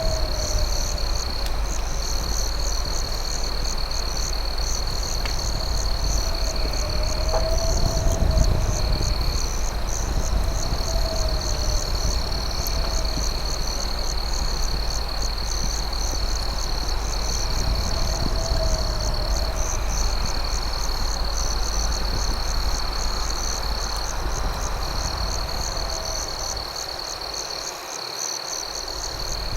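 Night chorus of crickets, a steady high trill and fast pulsing chirps, with a lower rising-and-falling call repeating every two seconds or so. Beneath it runs a low rumble from the campfire, with an occasional faint crackle.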